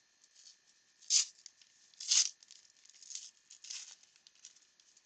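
A 1989 Upper Deck baseball card pack wrapper being torn open: several short tearing and crinkling rips, the loudest about one and two seconds in.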